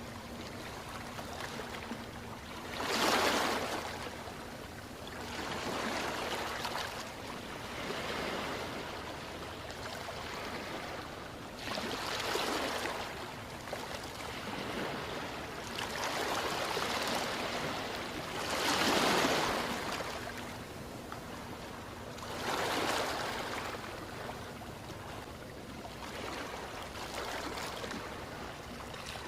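Ocean waves washing in over a steady hiss of surf, a new wave swelling and fading every few seconds. The loudest waves come about three seconds in and again near twenty seconds.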